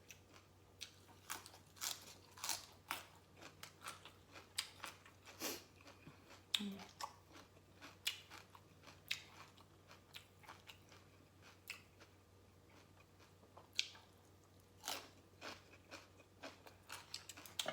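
A person chewing crunchy food, Lao green papaya salad and raw vegetables, with many irregular crisp crunches.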